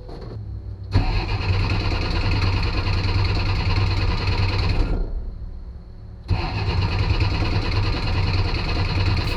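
1967 Kaiser M715 Jeep's inline-six being cranked over on the starter in two attempts right after stalling: the first runs about four seconds and the second starts again about a second and a half after it stops.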